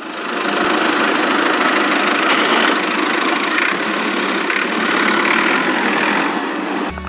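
A small motor running steadily, a loud whirring noise with no deep bass, starting abruptly.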